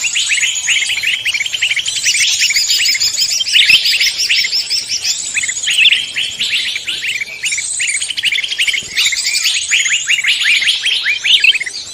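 A dense chorus of many songbirds calling at once, with rapid overlapping chirps and quick rising and falling notes that never stop. It is a mixed forest-songbird recording used as a lure to draw other songbirds in.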